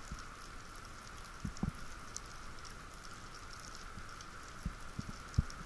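Underwater reef ambience picked up by a diver's camera: a steady hiss with faint scattered crackling, and a few soft low thumps, about two near the middle and three near the end.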